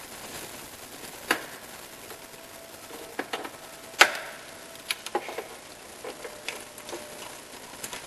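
Scattered sharp clicks and knocks of hand tools and metal engine parts being handled, about ten in all, the loudest about four seconds in, some with a brief metallic ring.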